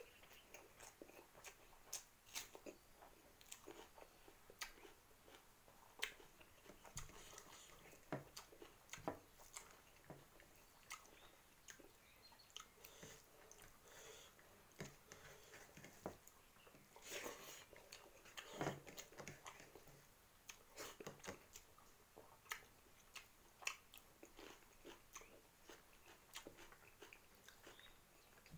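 Faint, close-up eating sounds of a person eating rice and fried Maggi noodles by hand: chewing and wet mouth smacks, heard as scattered short clicks at an irregular pace.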